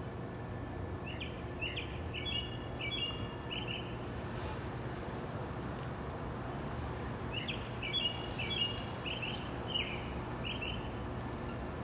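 A songbird singing twice, each phrase a quick run of short repeated chirps lasting about two to three seconds, the second coming some six seconds after the first, over a steady low background hum.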